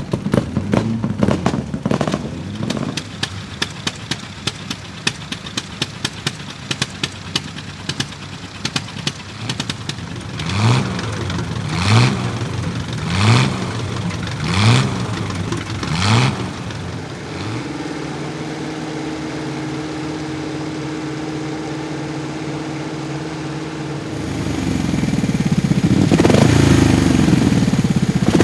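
Vintage racing car engine running: first an uneven, popping and crackling idle with a few quick revs, then blipped five times, each rev rising and falling about a second and a half apart, then settling to a steady idle. Near the end a louder engine sound takes over.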